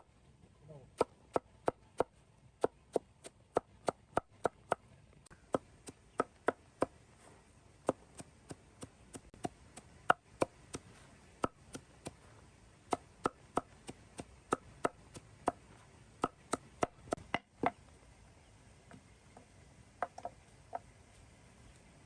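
Steady chopping: a blade striking down onto a wooden surface, about two to three strokes a second. It stops about seventeen seconds in, followed by a few lighter knocks.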